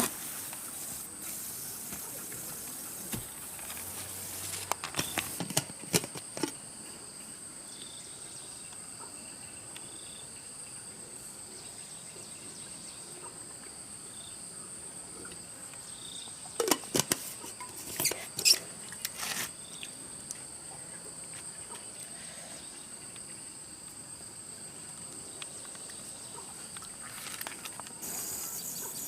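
Insects chirring steadily at a high pitch, with a few short clusters of sharp knocks and scrapes, once about five seconds in and again at about seventeen to nineteen seconds.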